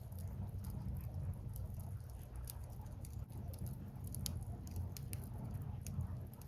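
Burning firewood crackling, with scattered sharp pops and ticks over a steady low rumble.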